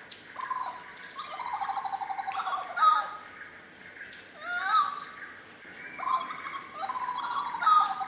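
Bird song: the same phrase sung twice, each a rapid trill of short notes followed by quick upward-swept whistles and a few high thin notes.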